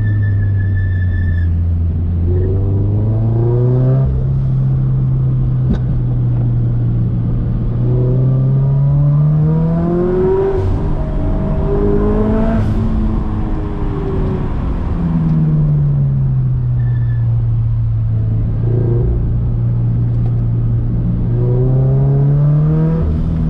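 Turbocharged Scion FR-S's flat-four engine pulling hard and easing off in turn, its pitch climbing and dropping several times.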